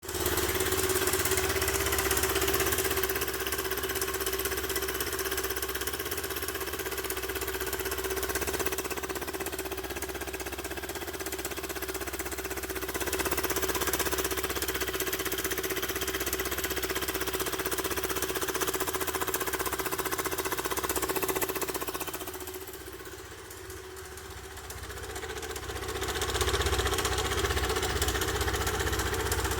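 Kymco K-XCT 125 scooter's single-cylinder engine running steadily, with the rattling noise its owner finds strange. It drops quieter for a few seconds about three quarters of the way through, then picks back up.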